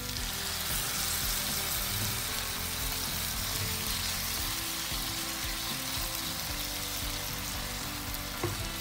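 A hot pan of frying mushroom-and-cabbage Manchurian mixture sizzles steadily as water is poured in, and a wooden spatula stirs through it.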